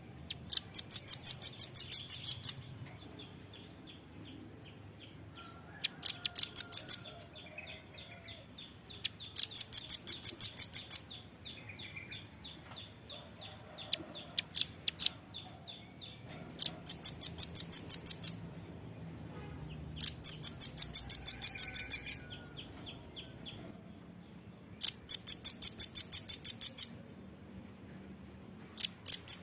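Velvet-fronted nuthatch (rambatan paruh merah) calling: rapid runs of very high, sharp chips at about ten a second, each run lasting one to two seconds and repeated every few seconds. A softer, continuous trill of lower chips runs between the runs.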